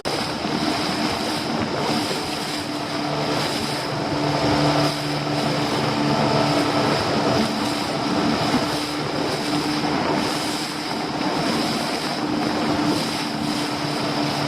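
Small fishing boat's engine running steadily under way, a constant hum over the rush of water and wind.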